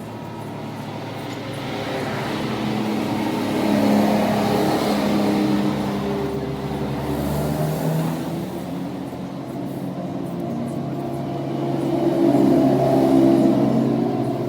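An engine running, rising and falling in speed, with louder swells about four seconds in and again near the end.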